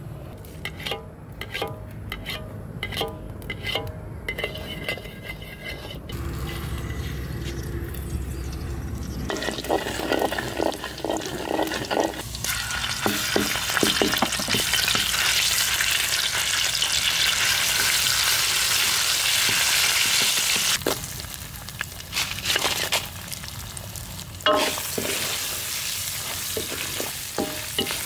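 Hot oil sizzling in a wok as garlic and chilli paste fry, with a metal spatula scraping and stirring; the sizzle is loudest and steadiest in the middle stretch. Near the end, dried red chillies are stir-fried with more scraping strokes. The first few seconds hold scattered knocks and clatter.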